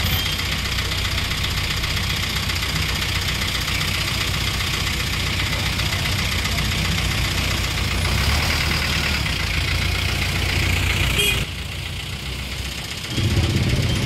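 A motor vehicle's engine running steadily amid street noise. The sound drops away for a second or two near the end, then comes back.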